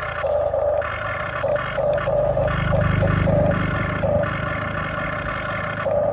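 Huina RC excavator's small electric motors and plastic gearboxes whining in short, stop-start bursts as the controls are worked, with a low rumble swelling about halfway through.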